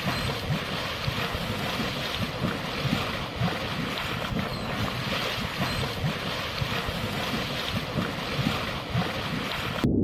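Strong wind buffeting the microphone: a steady rushing noise with gusty low rumbling, cutting off abruptly just before the end.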